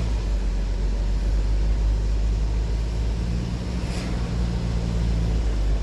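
Car driving, heard from inside the cabin: a steady low road and engine rumble, with the engine's hum coming through more clearly in the second half.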